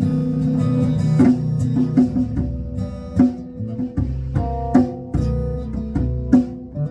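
Live band music with guitar playing over a bass line and regular sharp hits about once a second.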